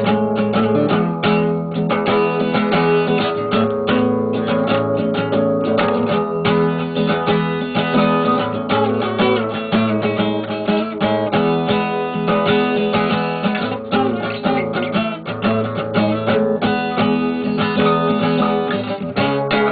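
Band music led by strummed guitar: an instrumental passage with no singing.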